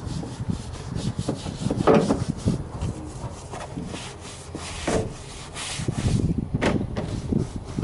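A brush scrubbing over engine-bay parts and hoses in repeated, uneven strokes.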